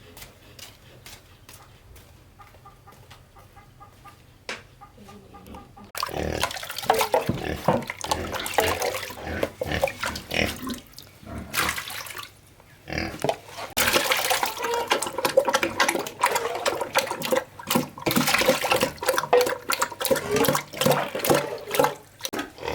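Pigs grunting and squealing, loud and busy from about six seconds in after a quiet start.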